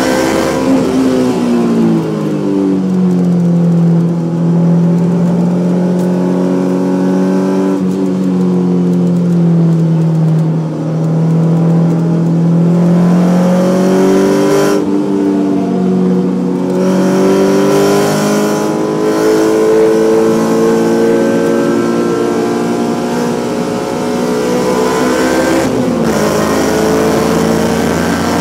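Honda S2000's four-cylinder engine with Spoon camshafts running under way. Its note sags, holds and climbs again, with short breaks in the sound about halfway through and near the end.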